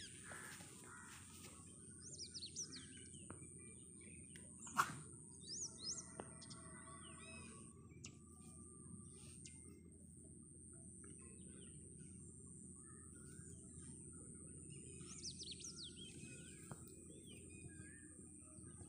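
Small birds chirping outdoors in short, quick, falling-pitch calls that come in a few clusters. Under them is a faint low rumble and a steady thin high tone. One sharp click comes about five seconds in.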